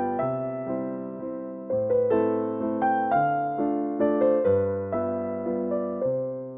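Background music: a gentle piano piece, chords and melody notes struck and left to fade.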